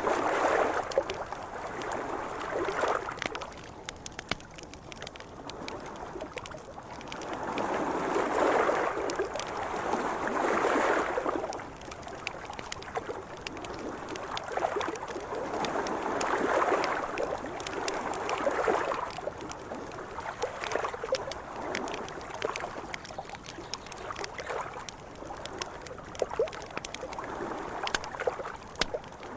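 Mild wake waves lapping against a riverbank, washing in and out in slow surges a few seconds apart, the biggest about a third and halfway through. A small campfire crackles throughout with sharp little pops.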